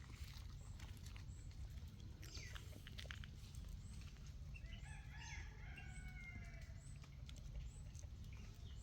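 A rooster crowing once, a drawn-out call of two to three seconds about halfway through. A few sharp clicks come before it, over a steady low rumble.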